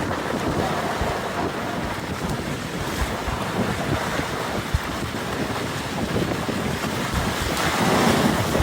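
Wind buffeting the microphone over a steady rush of water, with irregular low thumps of wind blasts.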